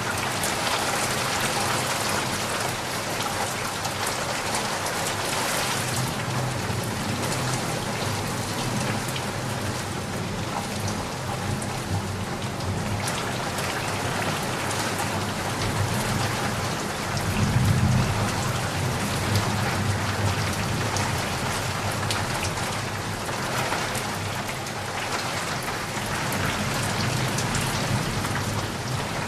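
Steady rain falling, a dense hiss of drops with many small individual drop taps. A low rumble swells briefly about two-thirds of the way through.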